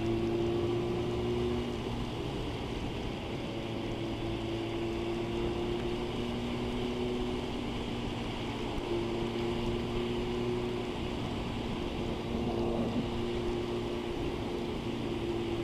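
Motorcycle engine running at a steady motorway cruise, a constant hum over wind and road noise.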